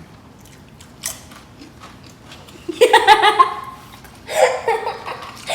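People laughing and giggling in two short bursts, about three seconds and four and a half seconds in, after a quiet stretch broken by a single click.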